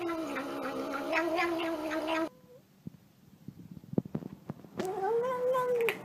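A domestic cat yowling in long drawn-out meows: one call of about two seconds that cuts off suddenly, then after a quiet pause with a few faint clicks, a second call about a second long that rises and falls in pitch.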